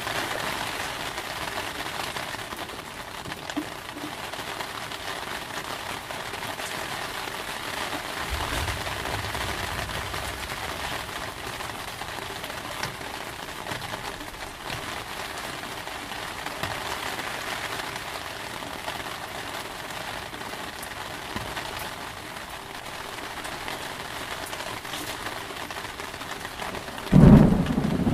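Steady heavy rain, with a low rumble of thunder about eight seconds in and a sudden loud clap of thunder near the end.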